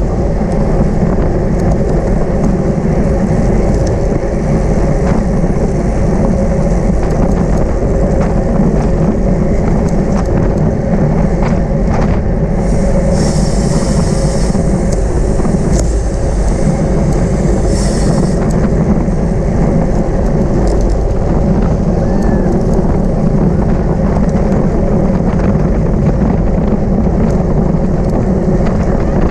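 Steady loud wind rush on the microphone of a racing bicycle's camera at speed, with a steady hum underneath. Two short bursts of higher hiss come about halfway through.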